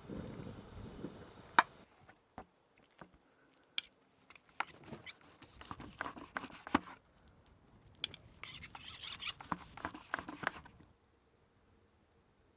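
Scattered clicks, knocks and scraping from handling cooking and eating utensils, with a sharp knock about one and a half seconds in and a busier patch of scraping about two thirds of the way through. It goes quiet near the end.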